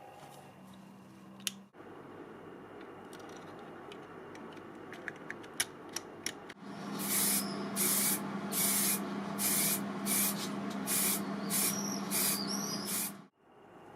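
Paint being sprayed in about ten short hissing bursts, over a low steady hum, ending abruptly. A few small clicks come before the spraying.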